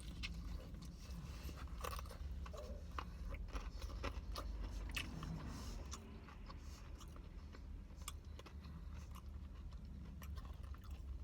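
Close-up chewing and biting into extra-crispy fried chicken tenders, with irregular crunching clicks of the breading, over a steady low hum.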